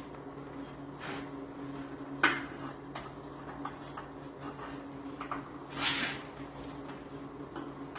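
A few knocks and clanks, the sharpest about two seconds in, and a short rushing scrape about six seconds in, over a steady low hum.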